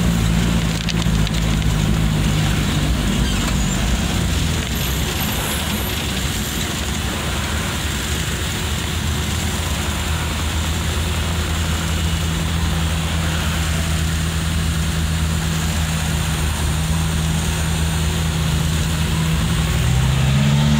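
Vehicle engine running at low speed in slow city traffic, heard from inside the cabin as a steady low hum over road and traffic noise, with a short rising tone near the end.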